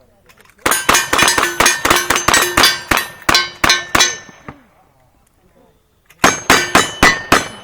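Rapid gunshots, each followed by the ring of bullets striking steel targets: a fast string of about a dozen shots and rings, a pause of nearly two seconds, then a second quicker string of about six.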